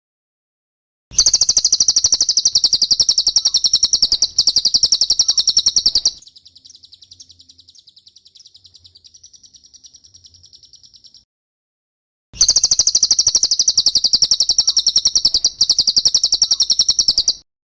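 Recorded cililin bird song: a rapid, high-pitched trill of fast repeated chirps in bursts of about five seconds. A much fainter stretch of trilling comes between the loud bursts, with a short pause before the last burst.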